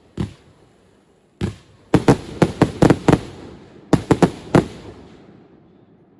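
Firework bursts from a professional display: a single bang, then a quick run of about seven sharp bangs followed by four more, each trailing a short echo before the sound dies away.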